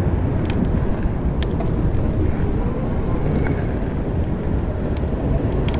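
Steady low rumble of city street traffic mixed with wind buffeting the microphone, with a few light clicks.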